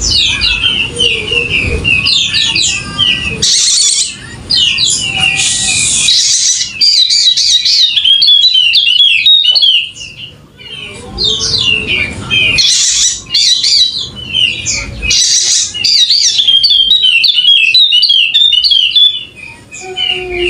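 Yellow-spectacled white-eye (pleci Wallacea) singing a fast, continuous twittering song of quick high chirps, pausing briefly twice.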